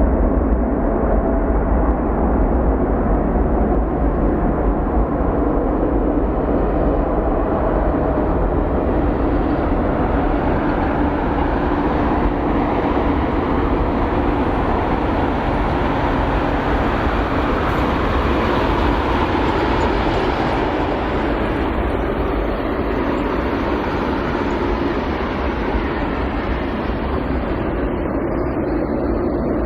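Boeing 787-9 jet engines at takeoff power: a loud, steady rumble that grows brighter about two-thirds of the way through, then loses its highest tones as the airliner climbs away.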